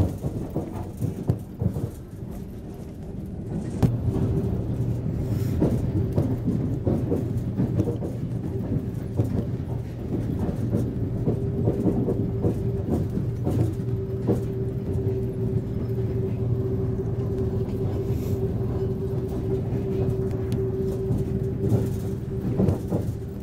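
Passenger train running: a steady low drone with scattered knocks, and a steady tone that sets in about four seconds in.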